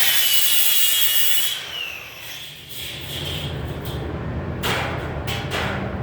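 Handheld power tool running with a high whine that drops in pitch as it winds down about a second and a half in. From about four and a half seconds in, a run of short scraping, rasping strokes follows, over a steady low hum.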